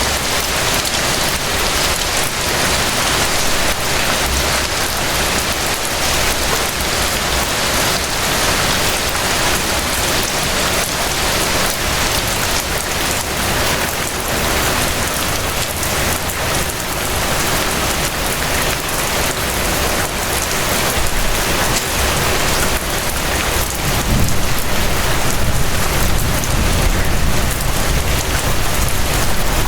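Steady rain falling, a dense, even hiss and patter of drops. A deeper low rumble comes up about two-thirds of the way through.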